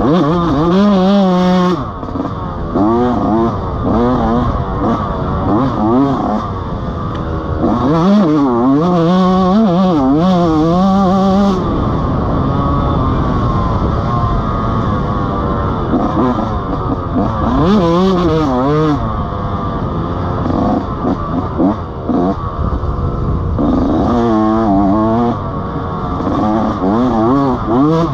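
Dirt bike engine being ridden, its pitch rising and falling again and again as the throttle opens and closes and the gears change.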